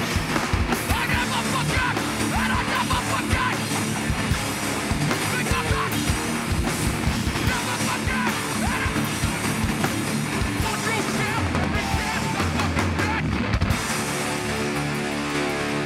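Live hardcore band playing loud: distorted electric guitars and bass over fast, pounding drums. About fourteen seconds in the drums stop and ringing guitar chords carry on alone.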